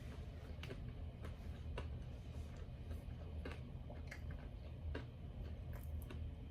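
Close-miked chewing of breaded chicken nuggets: faint, irregular mouth clicks and smacks, about one or two a second, over a steady low hum.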